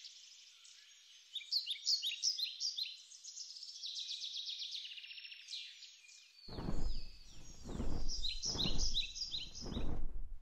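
Small birds chirping rapidly and repeatedly, many short chirps overlapping. From about two-thirds of the way in, five loud low rushing bursts, evenly spaced, cut in over the chirping.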